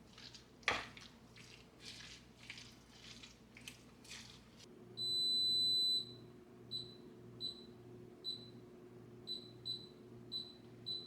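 A kitchen appliance's electronic control panel: one long high beep, then a run of short beeps at uneven spacing, like buttons being pressed, over a steady low hum. Before the beeping come soft handling clicks and rustles, with one sharper click.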